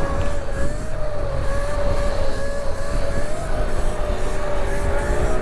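Electric dirt bikes riding along: a steady high-pitched motor whine that wavers slightly in pitch over low wind and road rumble. A second, lower whine rises near the end.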